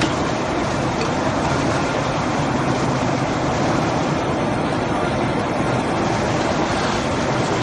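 A rebar flash butt welding machine at work: a steady, dense mechanical noise with a fine rapid crackle and no pause.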